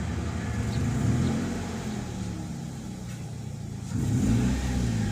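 Toyota Vios engine running with a rough, shaking idle, its revs rising briefly about a second in and again near the end. The shake shows while the oxygen sensor is connected, and the mechanic also points to a damaged engine mount.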